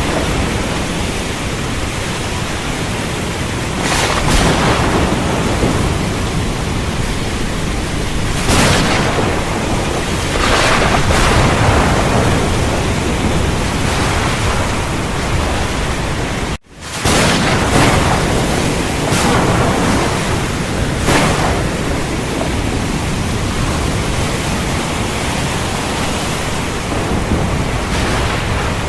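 Heavy rain falling steadily in a dense hiss, with thunder breaking in as short louder swells several times. The sound cuts out for an instant about two-thirds of the way through, then comes straight back.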